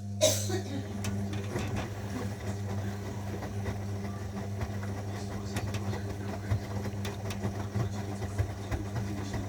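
Zanussi washing machine running with a steady electrical hum and light rattling and clicking, cutting off abruptly at the end.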